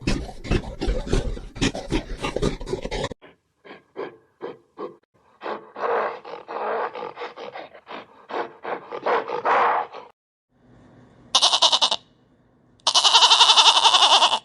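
A run of different animal calls cut one after another: low, rough calls for about the first three seconds, then a string of short calls, then longer calls, and near the end high, shrill drawn-out cries.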